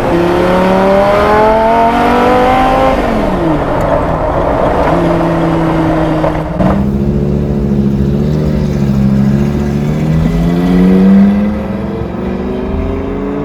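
Audi R8 V10 engine in a recreated Porsche 917 accelerating hard through the gears. The pitch climbs, falls briefly at each shift (about three seconds in, again near seven seconds and near eleven seconds), then climbs again.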